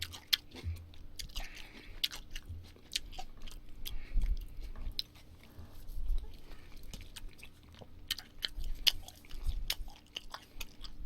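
Close-up chewing of chewy wheat-flour tteokbokki rice cakes, with many short wet mouth clicks and smacks.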